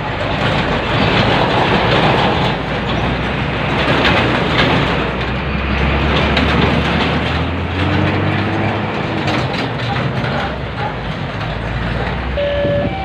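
A train passing close by: a steady loud rumble and clatter of wheels on the track. Near the end a horn begins sounding, switching between two pitches.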